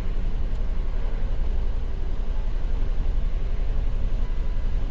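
Jeep Wrangler 3.8-litre V6 engine idling steadily with a fast, regular pulse. The engine has a misfire complaint and an intermittent camshaft position sensor signal (codes P0340/P0344).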